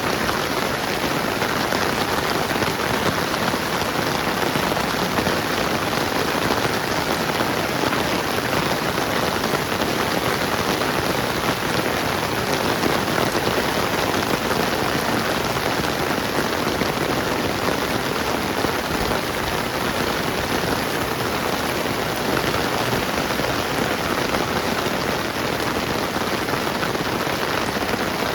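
Steady rain falling on surfaces, an even, dense hiss that holds at the same level throughout.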